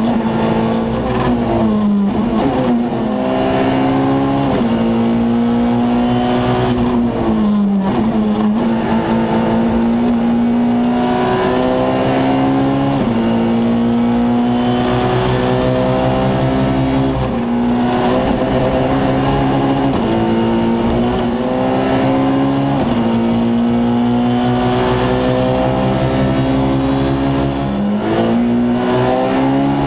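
Rally car's engine heard from inside the cockpit, pulling hard through the gears: the pitch climbs in each gear and drops sharply at each gear change, several times over, with a few slower falls as the car slows for corners. Low road and drivetrain rumble runs beneath it.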